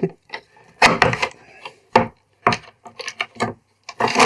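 Wooden knocks and clatter from objects being handled in a workshop: about a dozen short, sharp knocks at irregular intervals.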